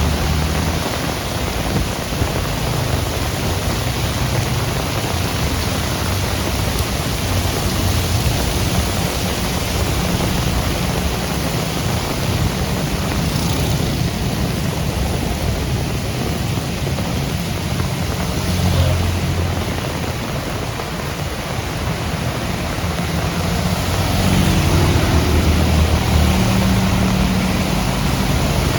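Heavy rain falling steadily, with a low rumble underneath that grows louder near the end.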